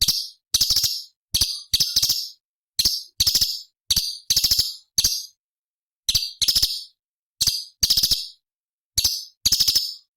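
Cucak cungkok (a leafbird) giving short, harsh, rattling chatter calls again and again, about one or two a second, each a fraction of a second long with clean silent gaps between.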